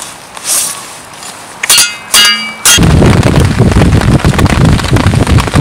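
Two sharp blade strikes on a branch with a brief metallic ring, then, about three seconds in, heavy rain starts loud and close, a dense pattering that fills the rest.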